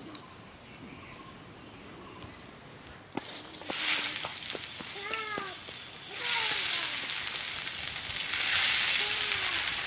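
Skewered meat kababs being laid into hot mustard oil in a large iron pan, the oil sizzling loudly. It is quiet at first apart from a few clicks; the sizzle starts about four seconds in, eases briefly around six seconds, then swells again as more skewers go in.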